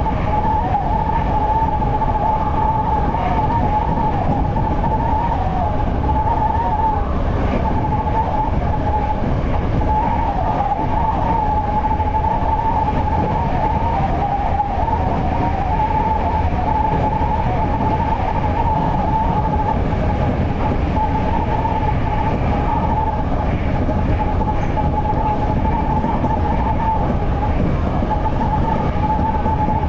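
Toyo Rapid Railway 2000 series electric train running at speed, heard inside the car: a steady rumble of wheels on rail with a constant high, wavering whine over it.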